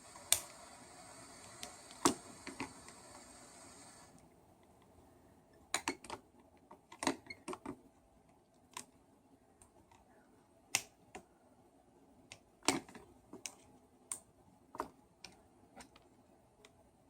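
Scattered small clicks and light taps of hands handling small parts and wires of a hammer drill under repair, with a soft hiss for the first four seconds.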